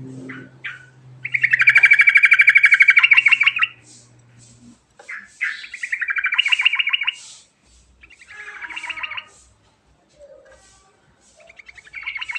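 Yellow-vented bulbul singing: four phrases of rapid, trilled notes with short pauses between them. The first phrase is the longest and loudest.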